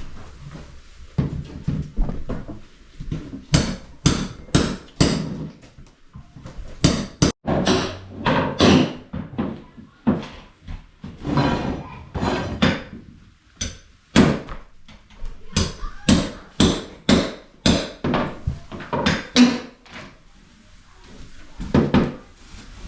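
Hammer blows, struck irregularly at about one to two a second, with short pauses between runs of strikes.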